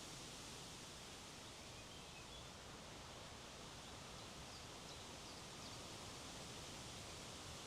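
Faint, steady wind rushing through trees and over the microphone, with a few faint high chirps in the middle.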